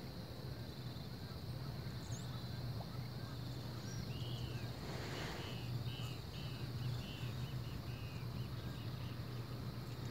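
Birds chirping: a quick run of short, arched chirps, about three a second, starting about halfway through and lasting some three seconds, with scattered fainter calls before it. Under them is a steady low hum of outdoor background.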